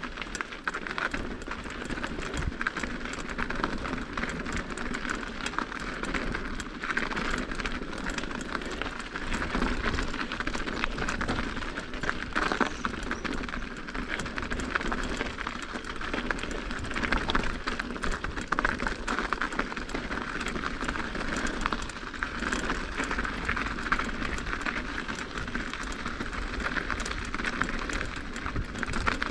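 Mountain bike rolling over an icy, snowy trail: continuous tyre noise on ice and snow with a steady patter of small rattles and clicks from the bike.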